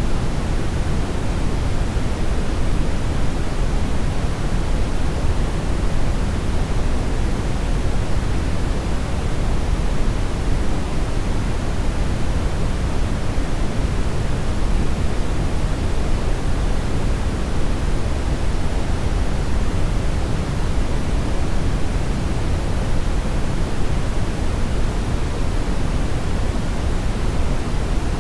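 Steady brown noise: an even, unchanging hiss weighted heavily toward the low end, like a deep rumble, with no tones or events.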